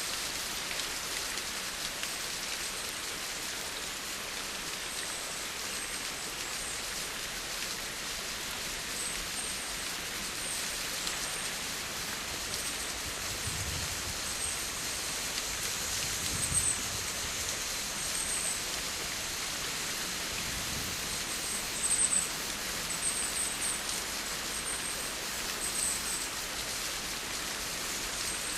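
Steady rain falling, an even hiss of drops, with a couple of louder patches of patter about halfway through and again a little later.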